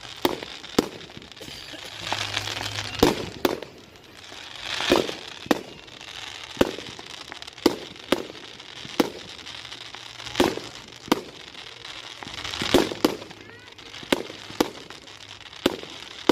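Fireworks going off: a string of sharp bangs at irregular intervals, one or two a second, with a few longer rushing swells in between.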